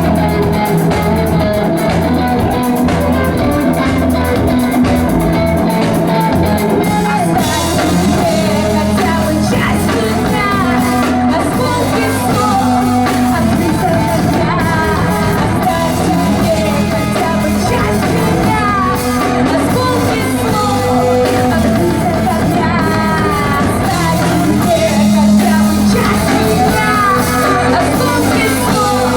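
Live rock band playing: guitars and bass, with a singer's voice over them. The sound fills out about seven seconds in, and the singing runs on from there.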